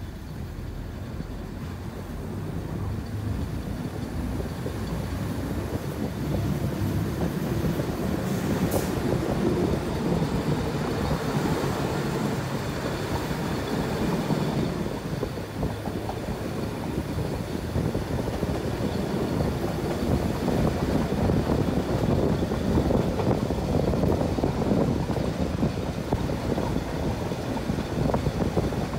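Fiat M4 diesel railcar running along the track, heard from on board: the engine and the wheels on the rails make a steady running noise that grows louder over the first few seconds and then holds.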